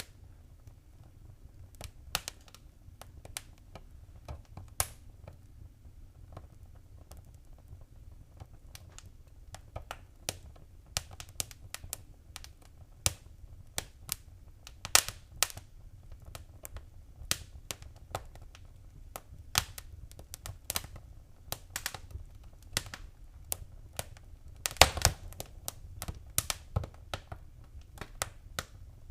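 Fireplace fire crackling: irregular sharp pops and snaps over a low steady rumble. They are sparse at first and come more often later, with a cluster of the loudest pops about 25 seconds in.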